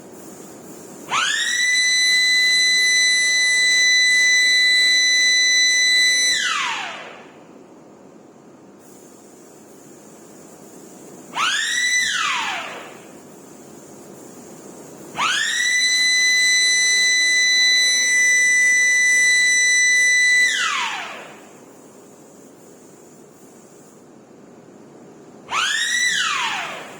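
Warning siren winding up to a steady high tone, holding it for about five seconds and winding back down. It sounds again briefly around the middle, then for another long hold, and once more briefly near the end.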